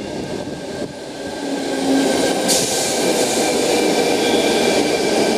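Sydney Trains Tangara electric train pulling into the platform: a rumble of wheels with a steady motor whine that grows louder over the first two seconds. A brief hiss comes about two and a half seconds in.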